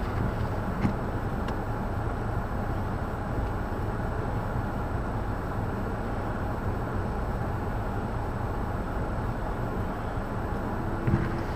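Blizzard wind blowing over the microphone: a steady low rumble without breaks.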